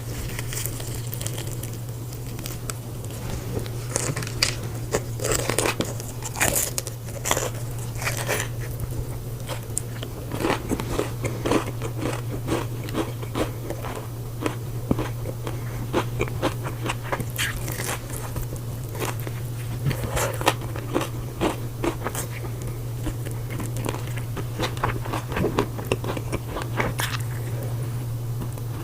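Close-up crunching and chewing of crunchy food, with irregular bites and crackles throughout over a steady low hum.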